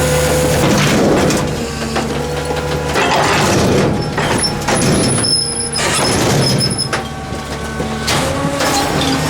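Ford L8000 garbage truck's diesel engine running, its note shifting a couple of times, with rattling mechanical noise and a thin high whine in the middle.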